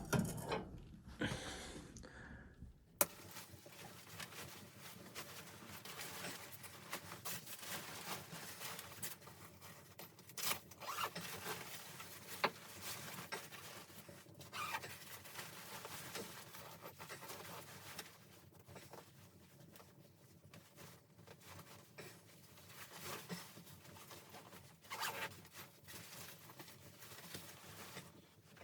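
Soft rustling with scattered small clicks and taps, as of gear being handled. A low rumble underneath stops abruptly about three seconds in.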